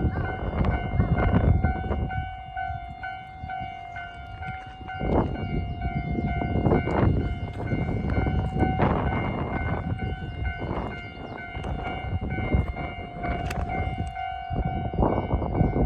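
Japanese level-crossing alarm ringing steadily while a two-car KiHa 40 diesel railcar set runs by, its heavy rumble broken by scattered sharp knocks from the wheels on the track.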